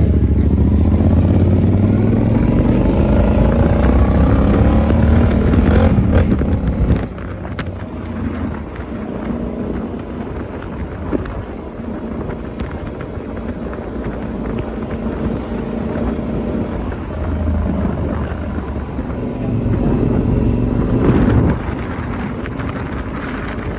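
Motorcycle engine accelerating, its pitch rising over the first six seconds and then dropping off sharply about seven seconds in. It runs quieter for a while, then picks up again and eases off near the end.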